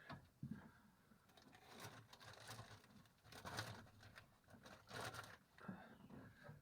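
Faint rustling and scraping noises in three or four short spells, with a few soft low knocks in between.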